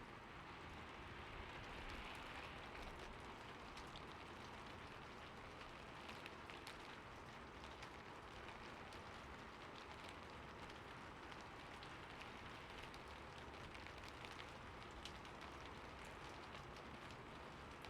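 Light rain falling steadily: an even hiss with many individual drops ticking on a surface.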